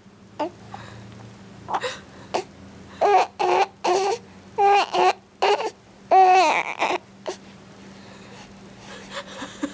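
A baby fussing, making a string of short cries and babbling sounds, the longest and loudest about six seconds in.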